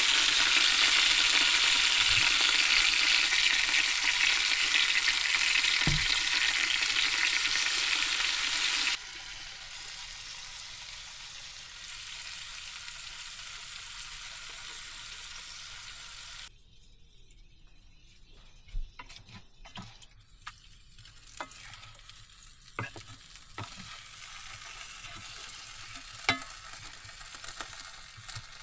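Food sizzling in a frying pan. The sizzle drops sharply in level about nine seconds in and stops abruptly past the halfway point. Scattered faint clicks and knocks follow.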